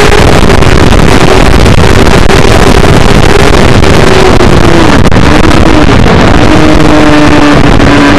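Suzuki GSX-R600 K7's inline-four engine at high revs, heard from an onboard camera under heavy wind rush on the microphone, very loud. Its note dips briefly about five seconds in, then holds a little lower.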